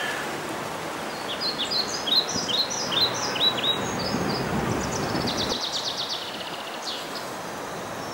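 Songbirds chirping over a steady hiss of outdoor background noise: a quick series of short, falling chirps, then a rapid trill about five seconds in. A low rumble comes and goes in the middle.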